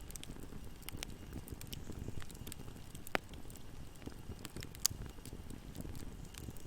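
Fire in a fireplace burning with a low steady rumble and constant small crackles, with two sharper pops about three and five seconds in.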